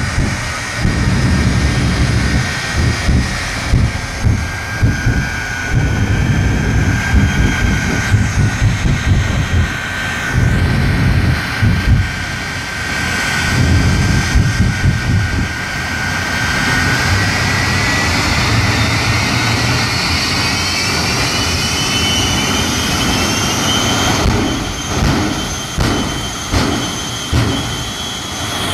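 The Shockwave jet truck's three jet engines running with a high whine over a rough low rumble. About two-thirds of the way through, the whine rises in pitch as the engines spool up, then holds at the higher pitch.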